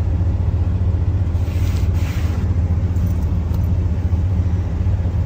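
Cammed twin-turbo LS V8 running at low speed with a steady, choppy low rumble. A brief hiss rises over it about one and a half to two and a half seconds in.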